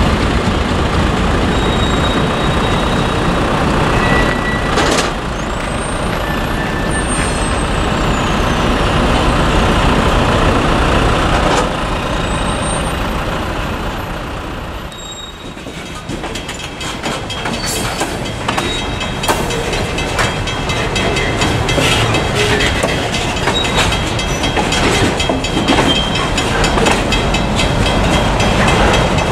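Alco M420 diesel locomotive's V12 engine running hard as it passes close by. About halfway through, this gives way to freight hopper cars rolling past, wheels clicking over rail joints with some high wheel-flange squeal.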